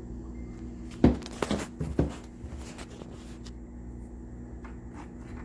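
A quick cluster of knocks and rattles about a second in, the first knock the loudest, over a steady low hum.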